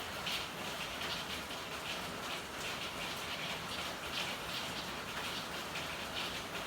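Steady rain falling, with irregular brighter spatters of drops every half second or so.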